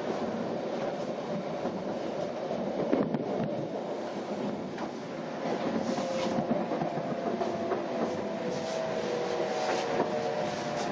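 Inside an N700 series Shinkansen car as it slows into its terminus: a steady running rumble with scattered clicks as the wheels cross rail joints and points. A faint whine joins about halfway through.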